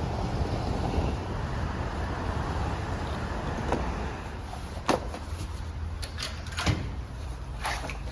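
Steady low rumble with a few sharp knocks or clicks, the loudest a little before halfway and again about two-thirds through.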